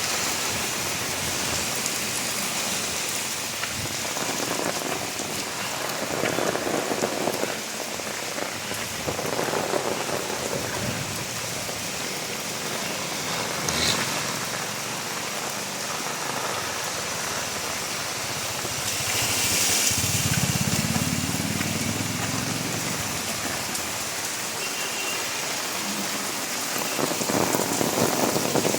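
Steady rain falling, an even hiss of drops on surfaces. About twenty seconds in, a low rumble swells and fades under the rain.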